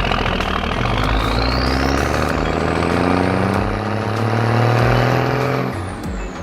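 Cartoon vehicle engine sound effect revving up, with a whine that rises steadily in pitch, then falls away near the end.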